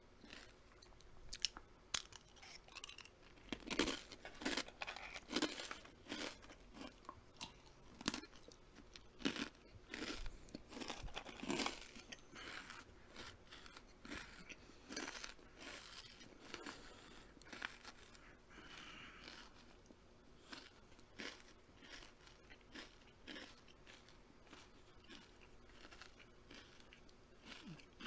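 Close-up crunching and chewing of something crisp being bitten and eaten: a quick, irregular run of crackly crunches, loudest and thickest in the first half, then softer and sparser.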